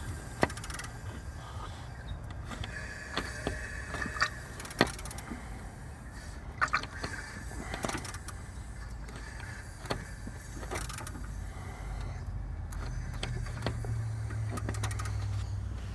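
Scattered metallic clicks and knocks from a wrench slowly turning the engine over by hand, over a steady low hum.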